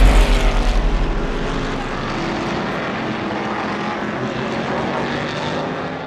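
Racing car engine rumbling loudly, easing after about a second and a half into a steady, even engine drone.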